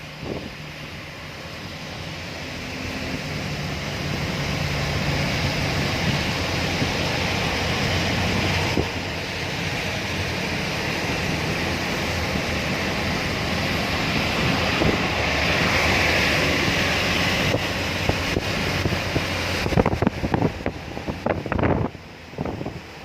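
Steady rushing noise of heavy rain and wind, building over the first few seconds, with a cluster of sharp clicks and knocks near the end.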